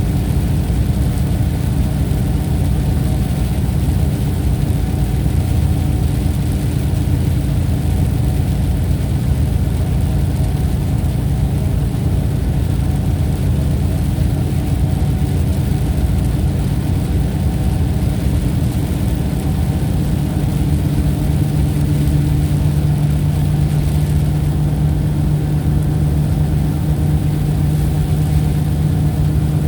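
Steady low drone with a humming tone, like a motor or engine running continuously; the hum strengthens slightly about two-thirds of the way through.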